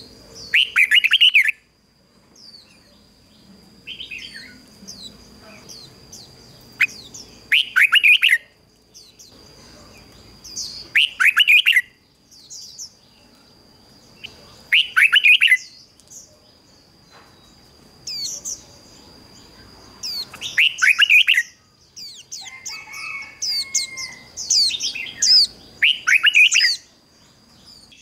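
Red-whiskered bulbul singing: short, loud warbled phrases repeated every three to four seconds, over a faint steady high whine.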